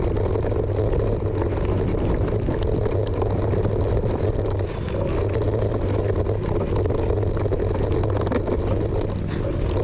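Steady rumbling wind and tyre noise from a mountain bike being ridden on a dirt motocross trail, with a few small clicks and rattles.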